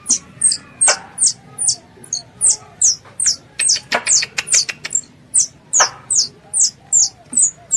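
Young squirrel calling for its mother: a rapid, steady series of short, high-pitched chirps, each falling in pitch, about three a second, with a few sharp clicks among them.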